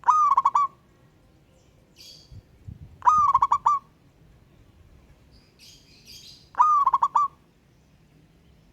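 Zebra dove (perkutut) cooing: three short coos about three seconds apart, each a quick run of pulsing notes. Faint high chirps of other small birds come between the coos.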